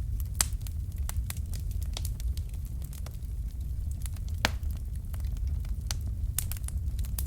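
Wood fire crackling in a fireplace: irregular sharp snaps over a steady low rumble, with two louder snaps, one about half a second in and one after about four and a half seconds.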